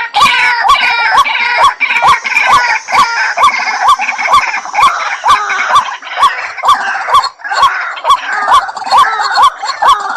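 White-breasted waterhen calling: a fast, even run of short notes that hook upward, about two or three a second, with a busy chatter of higher notes over them.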